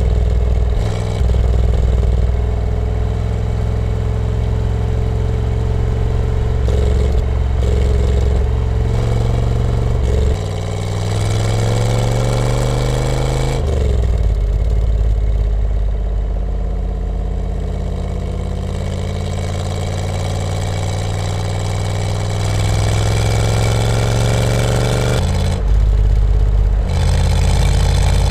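1965 Chevrolet Corvette C2's small-block V8 running under way, heard from inside the cabin. The revs climb about ten seconds in and drop sharply at a gear change a few seconds later, then rise slowly again before a brief dip near the end.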